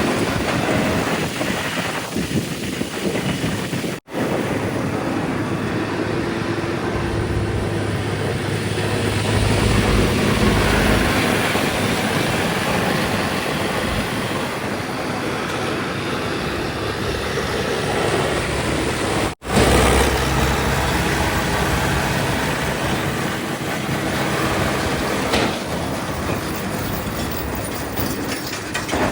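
Heavy diesel machinery engines running steadily, with the sound dropping out abruptly for an instant twice.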